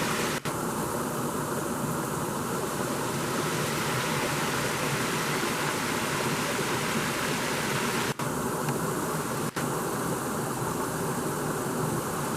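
Waterfall rushing, a steady full roar of falling water that cuts out for an instant three times.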